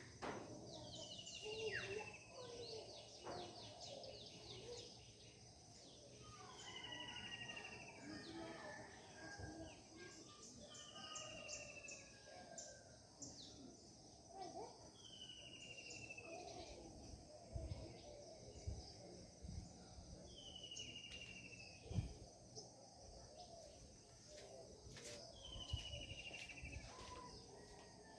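Faint morning chorus of several birds. One bird repeats a short, falling song phrase every four to five seconds among scattered higher chirps. A steady faint high hiss sits underneath, and there is a soft low thump about 22 seconds in.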